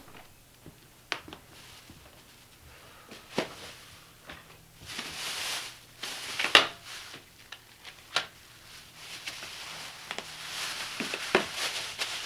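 Scattered small clicks and knocks with two longer rustling swells, over a faint steady hum: someone handling things in a small room.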